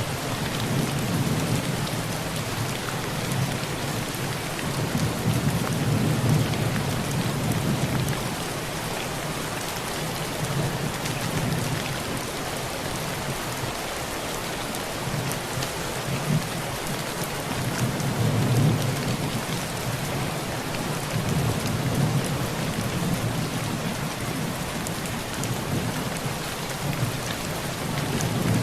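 Heavy rain falling steadily on a tin roof, with faint ticks of drops on the metal. Low thunder rumbles underneath, swelling and fading in long rolls several times.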